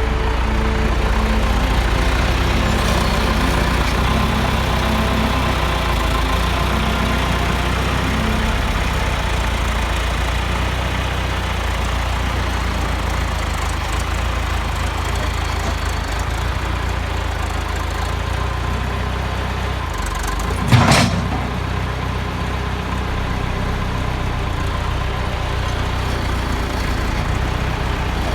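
Tractor engine running steadily, with one sharp clunk about two thirds of the way through.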